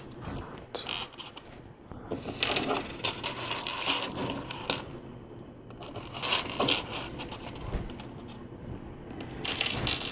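Small plastic LEGO pieces clicking and rattling as they are picked through and handled by hand, in three bursts of activity.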